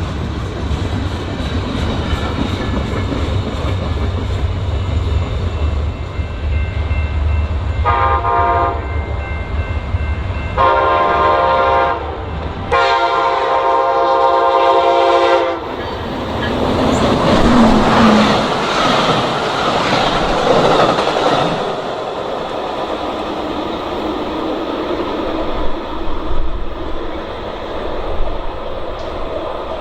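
A train's rumble, then three train horn blasts, the last the longest, as an Amtrak passenger train approaches. The horn is followed by a loud rush of the train passing at speed.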